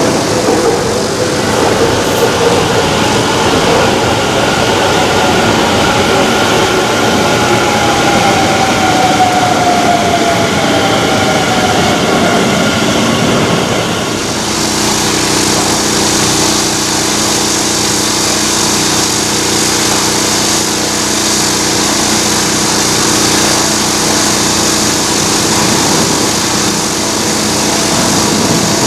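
Jet airliner engines, loud throughout. First an Airbus A321's engines with a whine that falls in pitch as it passes. About halfway through the sound changes abruptly to a Boeing 777-300ER's engines, a steady hum under a strong high hiss.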